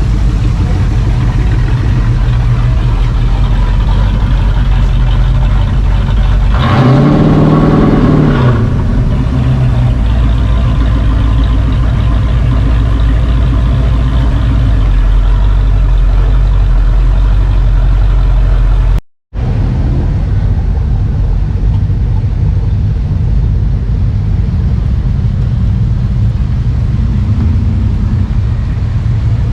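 Car engine idling with a deep, steady rumble, revved once about seven seconds in, the pitch rising and falling back within two seconds. The sound cuts out for a moment partway through, then the idle resumes.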